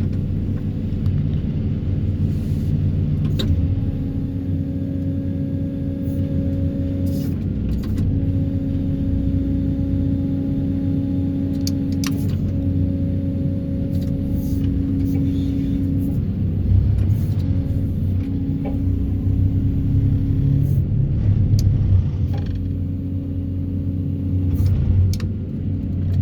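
Excavator-mounted vibratory hammer running steadily while pulling steel sheet piles, with the machine's engine rumbling underneath. A steady hum breaks off and resumes every few seconds, and there are scattered sharp clanks.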